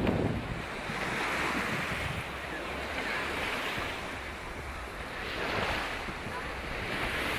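Black Sea surf: waves washing onto the shore, swelling and fading every few seconds, with wind rumbling on the microphone.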